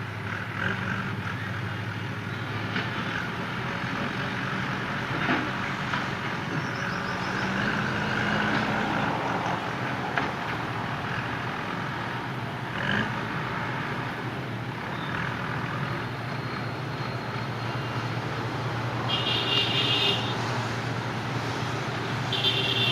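A diesel engine running steadily, its note rising slightly about a third of the way in, with two short high-pitched beeps near the end.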